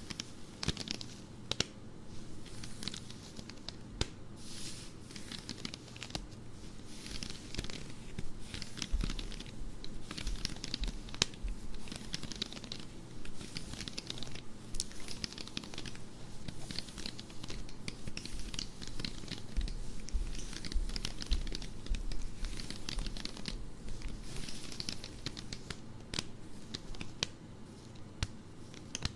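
Close-up scratching and rubbing on the fabric of worn stockings: a long run of irregular, crinkly scratching strokes, with a few soft low bumps of handling along the way.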